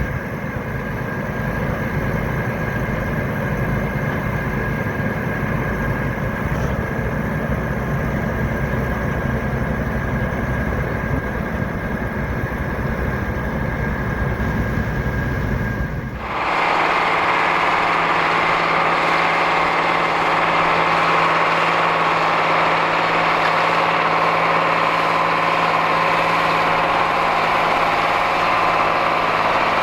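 Large farm tractor's diesel engine running steadily. About halfway through, the sound changes abruptly from a deep, low-heavy engine rumble to a brighter engine sound with a steady hum.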